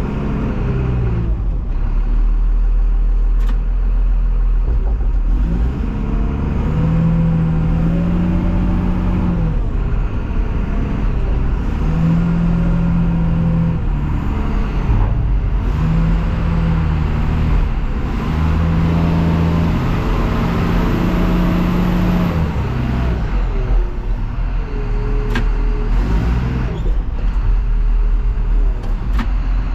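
Diesel engine of an International TerraStar truck running on the road, its pitch climbing and dropping several times as it accelerates and shifts through the gears over a steady low rumble.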